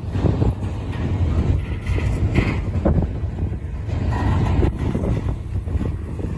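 Freight train cars rolling past at speed: a steady low rumble of steel wheels on rail, with scattered clunks and rattles from the cars, and wind buffeting the microphone.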